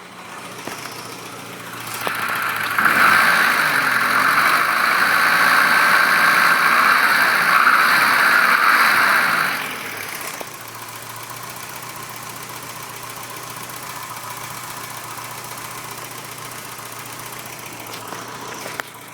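Winnebago LeSharo's Renault four-cylinder engine running with a knock that the owner suspects is rod knock. From about three seconds in it runs much louder for around seven seconds, then drops back to a steady idle.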